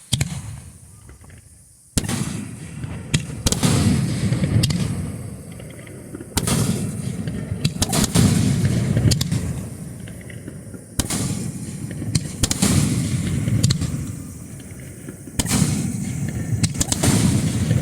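Starmine fireworks barrage heard from close to the launch site: waves of sharp reports about every four and a half seconds, starting about two seconds in, with a low rumble between.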